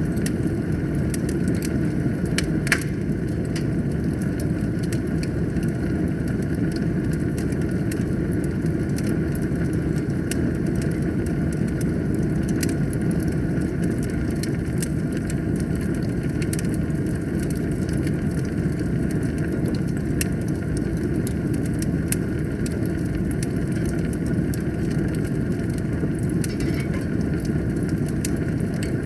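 Wood fire in a fireplace burning steadily: a low, even rumble of flames with frequent sharp crackles and pops from the burning wood, one louder pop about three seconds in.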